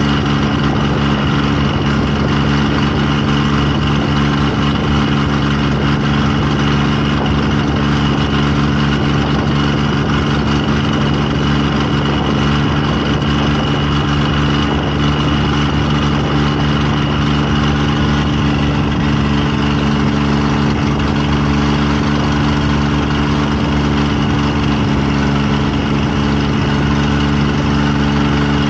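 An engine running at a steady, unchanging speed: a constant low hum with a faint higher whine over it.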